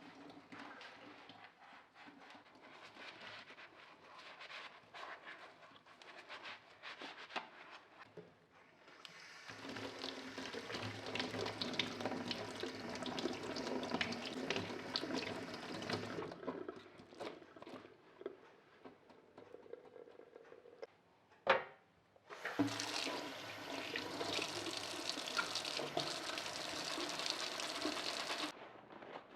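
Water running from a tap into a sink in two spells of about six seconds each, with small clatters and knocks in between and one sharp knock just before the second spell.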